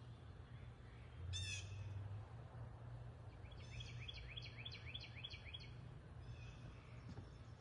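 Backyard birds calling faintly: one short harsh call about a second in, then a quick run of about eight chirps a few seconds later, over a low steady hum.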